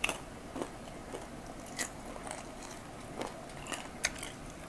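Close-miked chewing and biting of crispy fried chicken, with short, irregular crunches and wet mouth clicks every half second or so.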